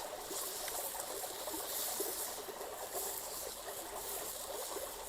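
Stream water running, a steady wash with small scattered gurgles.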